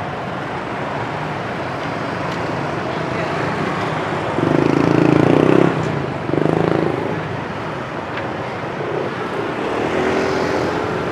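Road traffic noise from passing motor vehicles. A louder sound with a steady pitch cuts in twice, a long stretch about four and a half seconds in and a short one about a second later.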